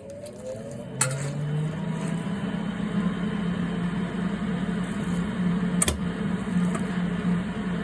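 Welding on a steel exhaust downpipe, tack-welding a howler pipe into it. A steady low hum with a noisy crackle over it sets in with a click about a second in, and there is another click near six seconds.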